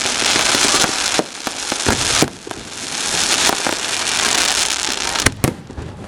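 Fireworks display: aerial shells bursting with several sharp bangs over a dense, continuous crackle. The bangs come in a cluster in the first couple of seconds and as two quick ones near the end.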